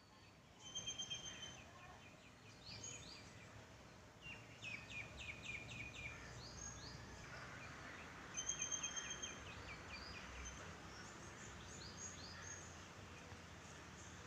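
Several wild birds calling over a steady hiss of background noise: a rapid high trill near the start that comes again later, and runs of short falling chirps in between.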